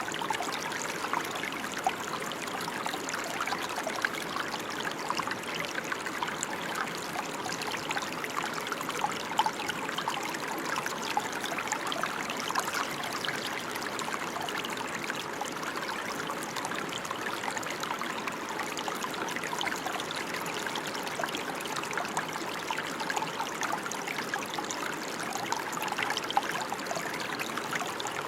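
Steady rain falling: an even hiss of many fine drops, with scattered louder single drop ticks.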